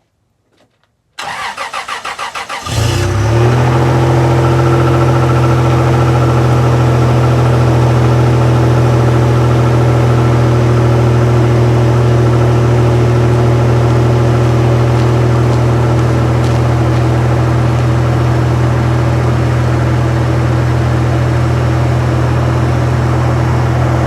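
1997 Toyota Tacoma engine cold-started at about 20 °F: the starter cranks in quick pulses for about a second and a half, the engine catches with a brief rev, then settles into a steady idle.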